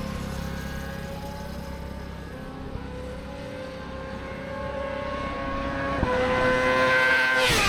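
Motorcycle engine running at road speed, its pitch steady and slowly rising, growing louder over the last couple of seconds. Near the end the engine note drops sharply.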